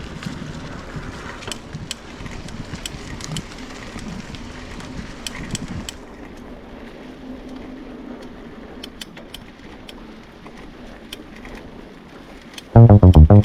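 Footsteps and camera handling while walking on a rocky trail: irregular soft crunches and sharp clicks over a low outdoor hiss. Loud electronic music with a drum-machine beat cuts in near the end.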